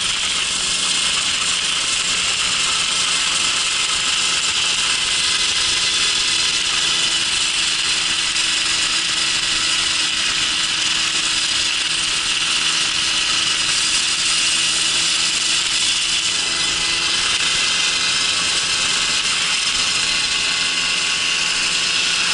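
Babetta moped's small two-stroke engine running steadily, a high buzzing drone with no break.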